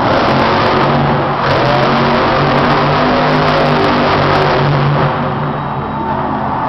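Monster truck's supercharged V8 engine running loud at high revs, holding a fairly steady pitch and easing off a little near the end.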